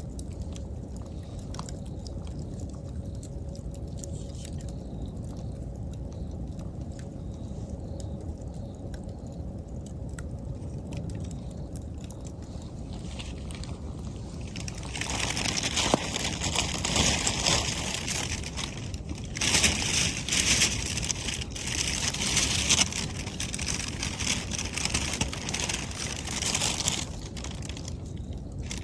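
A wood bonfire burning with a low steady rumble and sparse faint crackles. About halfway through, the crackling and hiss grow loud in uneven surges, with many sharp pops.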